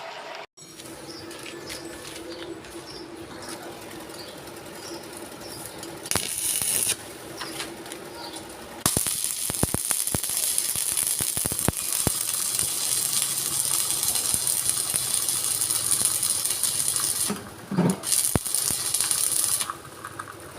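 Metalworking machinery in a factory workshop running steadily. About nine seconds in, a loud high-pitched hiss with scattered clicks takes over, and it stops abruptly near the end.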